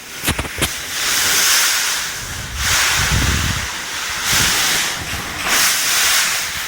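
Typhoon-force wind rushing and gusting in repeated surges every second or two. Two sharp knocks come just after the start.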